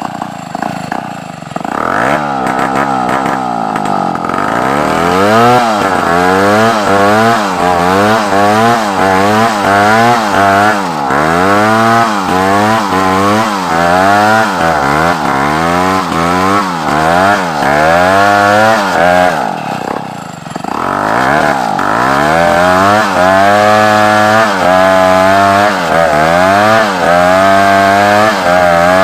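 Large chainsaw cutting African wood (kayu Afrika) timber, its engine pitch rising and falling about once a second as it works through the cut. It drops off briefly a little after two-thirds of the way through, then comes back under load.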